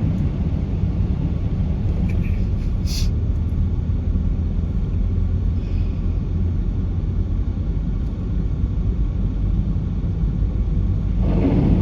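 Steady low rumble of a people carrier on the move, engine and tyre noise heard from inside the cabin, with a brief sharp click about three seconds in.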